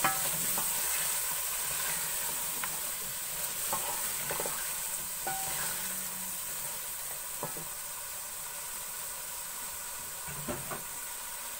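Pre-boiled beef pieces frying in oil and spice masala in a steel pot, sizzling steadily while being stirred with a wooden spoon, with a few light knocks of the spoon against the pot. The sizzle eases off gradually.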